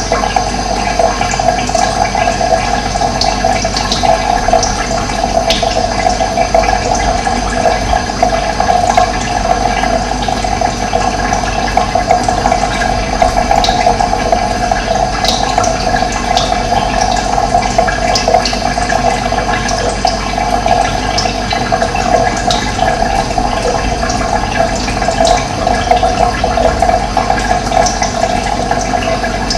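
Running water rushing steadily, with faint short bird chirps scattered over it.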